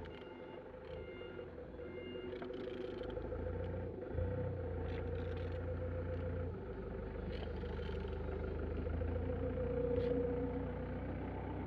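A motor running steadily with a low hum, growing a little louder a couple of seconds in; a reversing alarm beeps repeatedly at the start.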